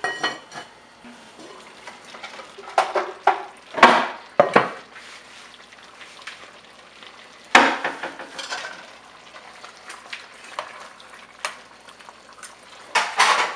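Chicken frying in curry paste and coconut milk in a pot, with a faint steady sizzle, while a utensil scrapes and knocks against the pot in irregular strokes as it is stirred. The loudest strokes come about four and seven and a half seconds in.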